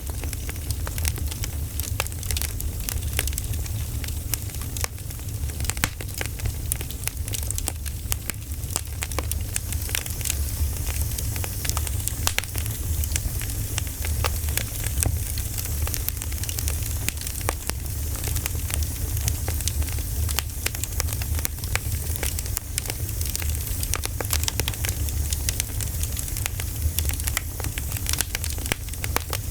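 Campfire crackling: many small sharp pops and snaps in quick irregular succession over a steady low rumble.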